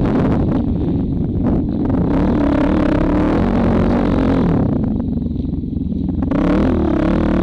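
2004 Honda CRF450R's single-cylinder four-stroke engine revving up and down through the lap, easing off about five seconds in, then picking back up.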